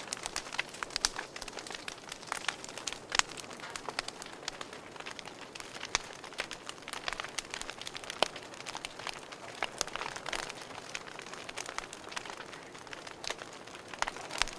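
Wood fire crackling in a fireplace: a steady soft hiss with many irregular sharp pops and snaps, some louder single pops scattered through.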